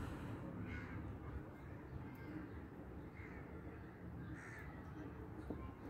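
Faint bird calls, several short calls about a second apart, over low background noise.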